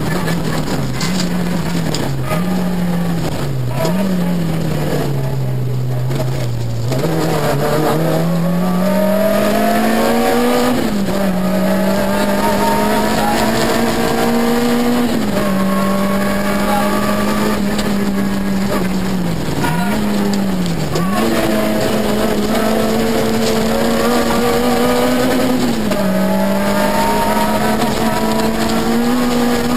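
Peugeot 106 XSi rally car's engine heard from inside the cabin, driven at racing pace. The revs climb for several seconds, drop sharply at a gear change about a third of the way in, dip twice in quick succession about two-thirds through, and dip again near the end, over steady road noise.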